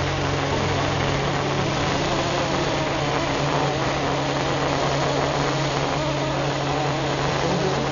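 CNC oxy-fuel cutting torch cutting through 30 mm steel plate: a steady, even hiss of the gas jet, with a low steady hum beneath it.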